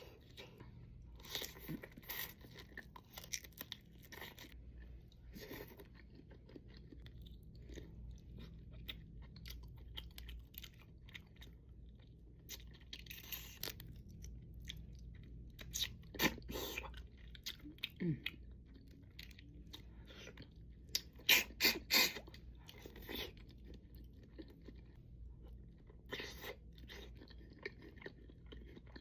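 Close-miked eating: a person chewing and crunching seafood food, with irregular wet smacks and sharp crunches. The loudest is a quick run of three crunches about three quarters of the way through.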